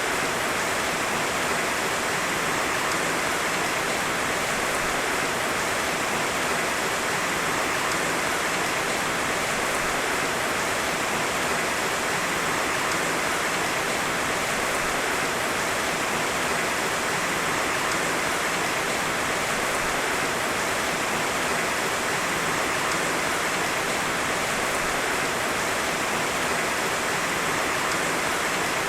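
Heavy rain falling steadily: an even, unbroken hiss of water with no thunder.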